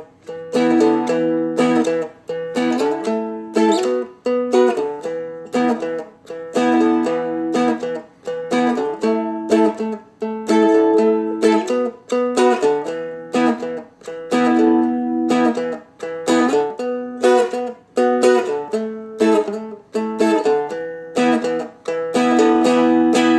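Seagull Merlin, a fretted dulcimer-style strumstick, strummed through a 12-bar blues progression with hammer-ons, in short chord phrases broken by brief gaps about every two seconds. Near the end the strumming turns continuous and brighter, the heavier strum.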